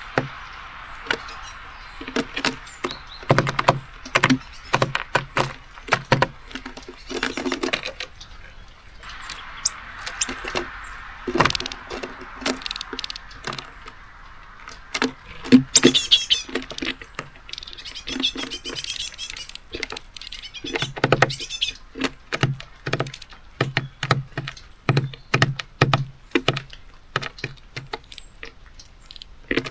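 Small birds, nuthatch and great tit, pecking and hopping at a seed feeder: rapid, irregular taps and knocks of beaks and feet, some with a dull thud. A few short chirps come about halfway through.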